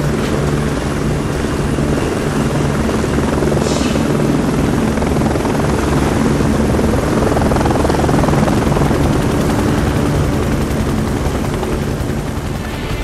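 Kamov Ka-62 helicopter running: steady rotor and turbine noise from its twin Turbomeca Ardiden 3G turboshaft engines, swelling a little toward the middle.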